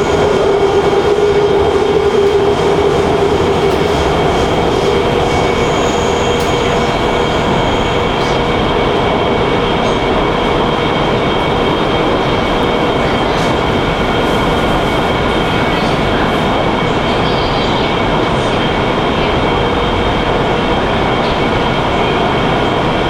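Wuxi Metro Line 1 train running at speed through an underground tunnel, heard from on board: a steady, loud rumble of wheels on track with constant high whining tones. A lower hum fades out about a third of the way in.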